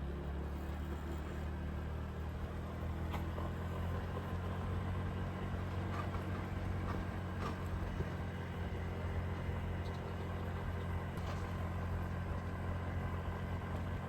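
Motorbike engine running at a steady speed while riding, an even low hum that neither rises nor falls.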